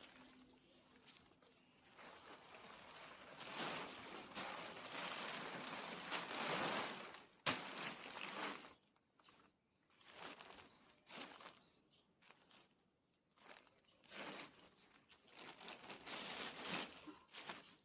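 Intermittent rustling and scuffing, like plants, bags or feet moving in a garden, with one sharp click about seven and a half seconds in.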